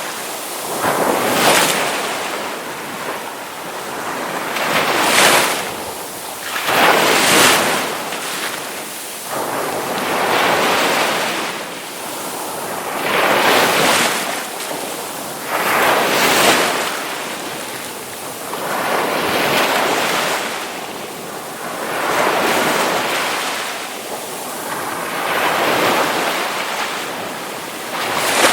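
Ocean waves breaking on a shore, each one swelling into a hiss of surf and falling back, roughly every two to three seconds.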